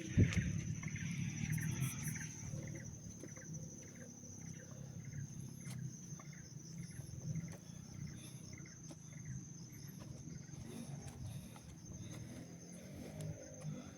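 Steady high-pitched insect trilling over a low outdoor rumble, with one sharp thump right at the start and faint short chirps in the first few seconds.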